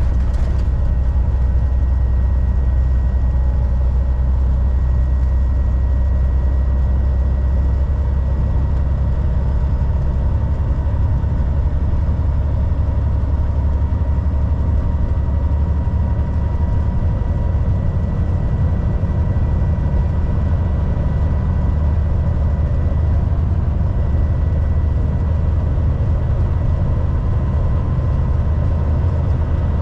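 Volvo VNL 760 semi truck cruising on the highway: a steady heavy-diesel engine drone mixed with road noise, with a faint steady whine above it.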